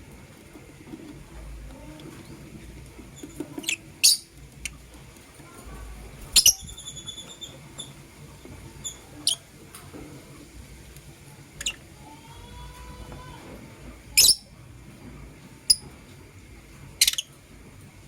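Lovebirds giving sharp, high chirps, about eight of them spaced a second or more apart, with one longer call about six seconds in.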